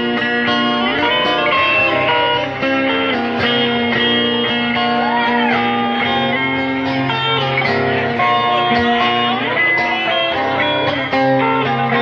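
Live band playing an instrumental intro: a lead guitar with bent, gliding notes over a steady bass line and drums.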